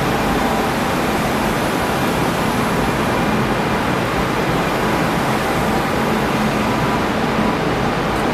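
Renfe Alvia electric high-speed train rolling slowly past along a platform: a steady rushing noise with a low hum and a faint whine from its traction equipment.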